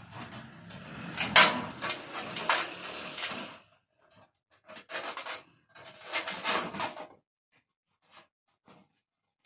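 Handling noise of repair work on a room heater: scraping and rustling with sharp clicks and knocks for the first few seconds, then a handful of separate short knocks and scrapes.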